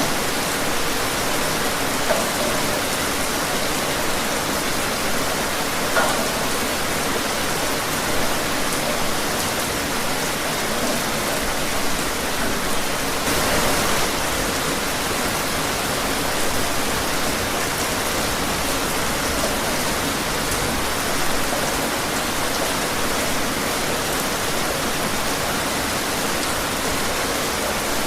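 Steady rain falling outside, a dense even hiss with occasional closer drops and a brief swell about halfway through.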